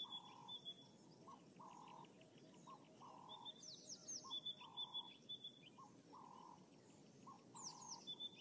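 Faint wild bird calls: a phrase of short notes with quick high downward chirps, repeating about every four seconds over a soft hiss of bush ambience.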